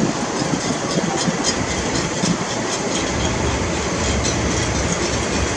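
A train running on the rails, its wheels clicking over the rail joints over a steady rumble. A deeper rumble grows about three seconds in.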